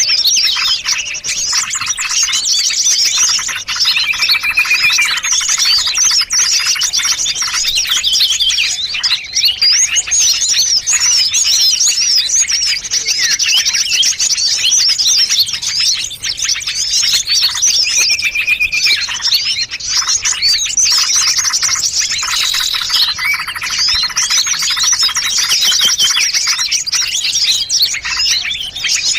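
Small-bird lure recording: the calls of many small songbirds layered into one dense, continuous chatter of high chirps, fast trills and short whistles. It is a mixed bird-trapper's lure call (suara pikat) meant to draw small birds in.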